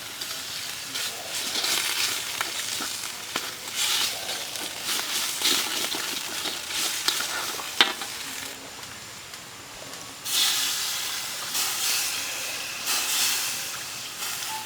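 Food sizzling as it fries in a pan and is stirred, the sizzle swelling with each stir, with a sharp knock about eight seconds in.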